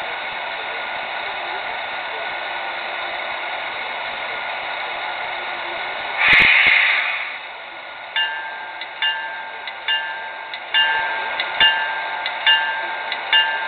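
Pennsylvania Railroad GG1 electric locomotive standing with a steady hiss and hum, a loud burst of air about six seconds in, then its bell ringing, about seven strokes under a second apart.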